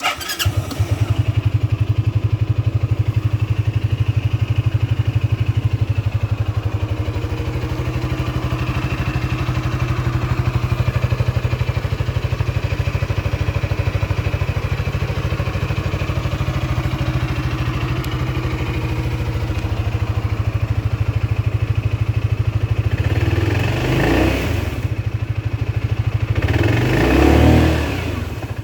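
Sym Maxsym 400i scooter's single-cylinder engine starting up, then idling steadily. Near the end the throttle is blipped twice, the engine revving up and falling back each time.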